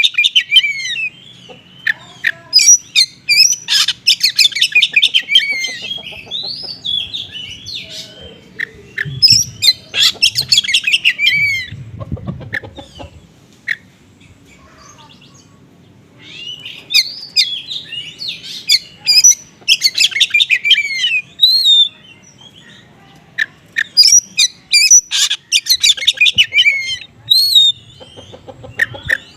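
Oriental magpie-robin singing a fast, varied song packed with mimicked small-bird chirps and trills. It comes in several bouts separated by short pauses.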